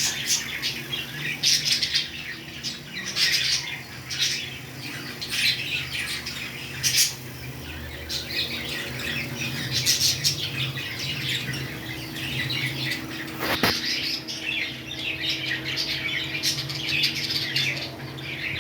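Pet parrots chirping and squawking in short bursts, one every second or two, with a single sharp click about two-thirds of the way through.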